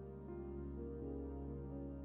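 Soft background music: held keyboard or synthesizer notes that change every half second or so over a steady low drone.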